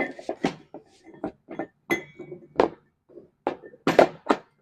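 Irregular metallic knocks and clinks, about nine in all, as a tire hub, its mounting bracket and a dust cover are handled and fitted together.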